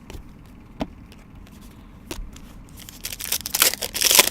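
Trading cards and their packaging being handled: a few light clicks and taps, then a crinkly, papery rustle about three seconds in.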